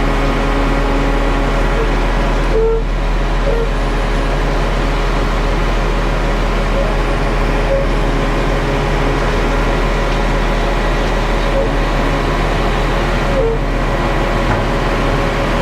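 Concrete mixer truck's diesel engine running steadily, a constant drone heard from inside the cab while the truck creeps forward alongside the curb machine.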